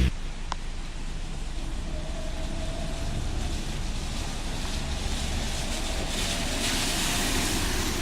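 Street traffic on a rain-wet road: a steady hiss of tyres and engine rumble, growing louder near the end.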